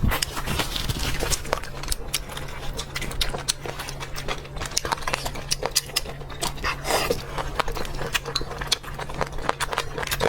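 A person eating close to the microphone: a steady run of short, crisp chewing clicks and mouth smacks over a faint low hum.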